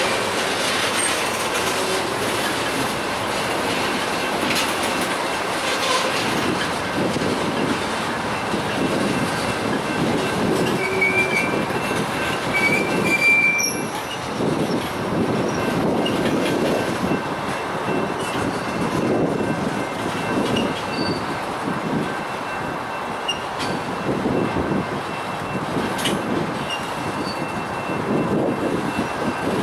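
Freight train cars rolling past, wheels clattering rhythmically over the track, with faint steady high wheel squeal and a couple of short, sharper squeals about halfway through.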